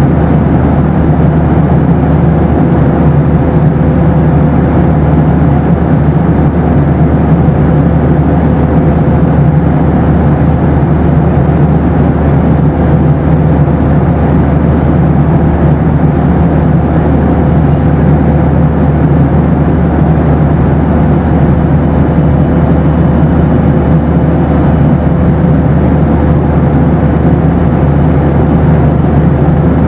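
Steady noise inside a Boeing 737 cabin in flight: engine and airflow noise, heaviest in the low end, with a faint steady hum running through it.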